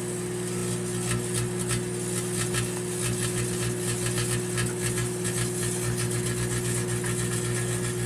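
Microwave oven running with a steady electrical hum, with irregular crackles and snaps from lead pencils heating inside it.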